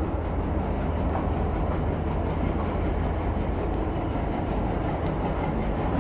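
Diesel-hauled passenger train running along the track: a steady rumble of wheels on rail, with a few faint clicks.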